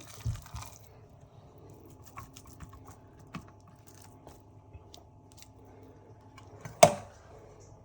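Faint scattered clicks and taps over a low steady hum, with one sharp click about seven seconds in.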